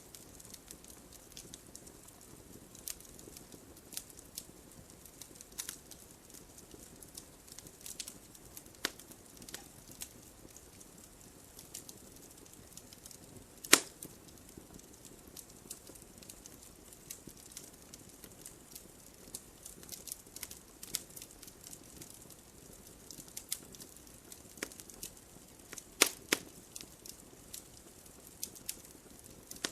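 Wood fire crackling in a fireplace: irregular sharp pops and snaps over a faint low hiss, with a loud pop about halfway through and a quick double pop near the end.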